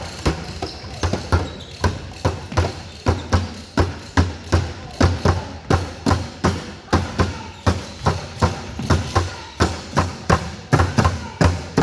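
Basketballs bouncing on a gym's hardwood floor: a quick, uneven run of thuds, several a second, as though more than one ball is being dribbled at once.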